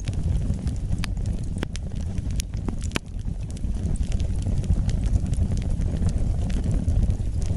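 Wood fire burning, a steady low rumble of flames with sharp crackles and pops from the burning logs every second or so.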